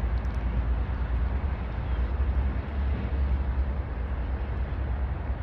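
Steady low outdoor rumble with an even hiss over it, without speech.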